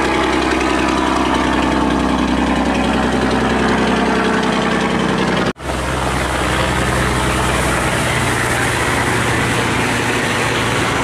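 Boat engines running steadily. About halfway through the sound cuts out for a split second, and the low hum is different afterwards.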